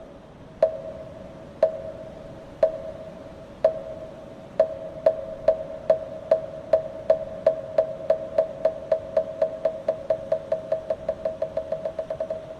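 Moktak, the Korean Buddhist wooden fish block, struck with its mallet: each stroke is a hollow knock with a short pitched ring. It starts at about one stroke a second, speeds up steadily into a fast roll of several strokes a second, and stops just before the end.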